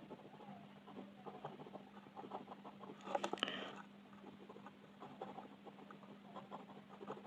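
Colour pencil shading on paper in quick, short back-and-forth scratching strokes, with a louder cluster of strokes about three seconds in, over a faint steady hum.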